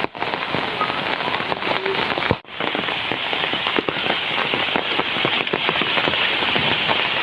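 Heavy rain falling, a dense patter of many drops, cutting out for a moment about a third of the way through.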